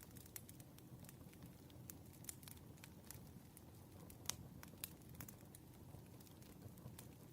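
Faint campfire crackling: a steady low rumble of burning wood with irregular pops and snaps, one sharper pop about four seconds in.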